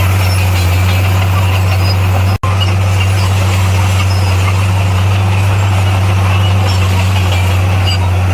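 Heavy-equipment diesel engine running steadily with a deep, even drone. The sound drops out for an instant about two and a half seconds in.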